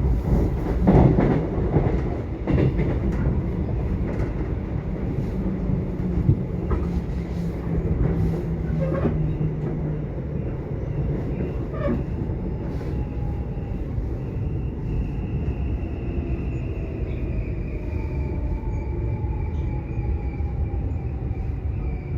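Subway train running: a steady low rumble, with several knocks in the first few seconds. From about fifteen seconds in, thin high whines slowly fall in pitch.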